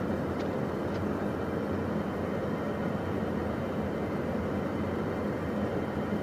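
Steady cabin noise inside a Beechcraft Premier 1A business jet in the climb: airflow and its twin turbofan engines as a continuous rush with a low hum. Two faint ticks in the first second.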